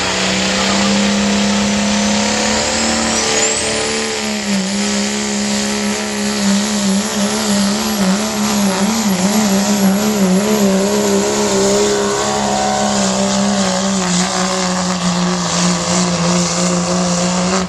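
Modified turbodiesel pickup at full throttle pulling a sled. It runs a steady, high engine note that wavers up and down midway through the pull, with a turbo whistle that climbs sharply in pitch about three seconds in and then holds. The engine lets off right at the end.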